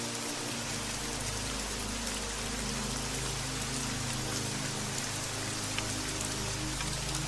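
Steady rain falling, an even hiss, with soft music of low sustained notes underneath; a deeper bass note comes in about half a second in.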